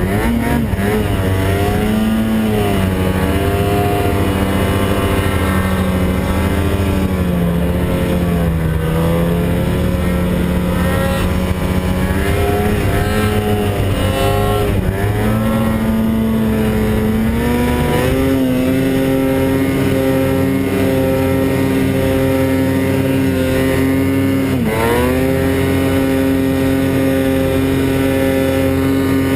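Snowmobile engine running hard under throttle, its pitch rising and falling with the throttle for the first half. It then holds higher and steady, with one brief drop in revs near the end.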